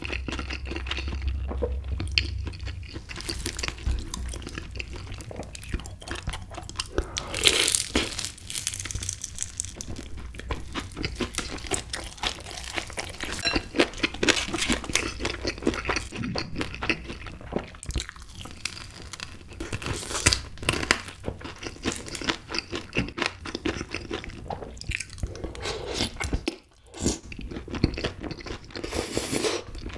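Close-miked chewing and crunching of crispy Kyochon Honey Combo fried chicken: a dense run of small crunches and wet mouth sounds, with a louder burst of crunching about eight seconds in and a brief lull near the end.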